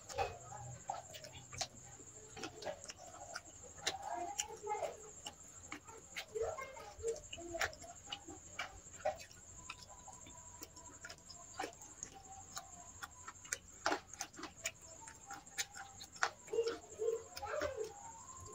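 Wet clicks and smacks of someone eating rice and chicken curry, coming irregularly, several a second at times.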